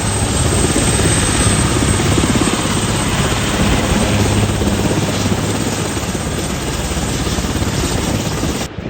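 Helicopter flying close by, its rotor giving a fast, steady chop; the sound cuts off abruptly near the end.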